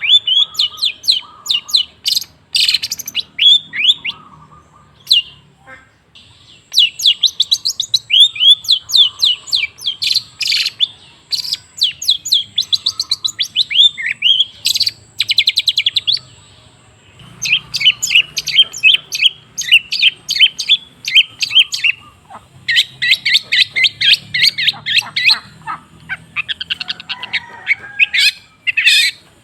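Long-tailed shrike (cendet) singing: fast runs of sharp, varied chirps and trills, broken by two short pauses.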